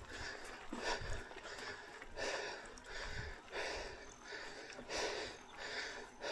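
A mountain biker breathing hard, a rhythmic run of breaths in and out roughly every second.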